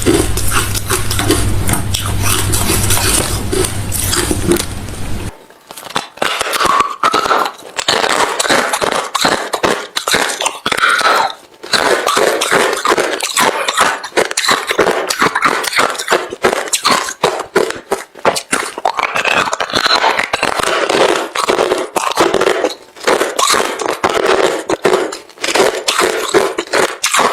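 A person chewing hard refrozen crushed ice close to the microphone: a dense, irregular run of loud crunches. A steady low hum lies under the first five seconds, then cuts off.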